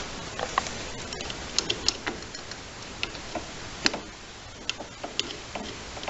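Irregular light clicks and ticks, a dozen or so at uneven spacing, over a steady hiss.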